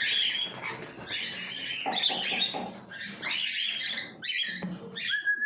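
A pair of yellow-sided conures, a colour form of the green-cheeked conure, chattering in a quick run of short, harsh calls, with a short whistled note near the end.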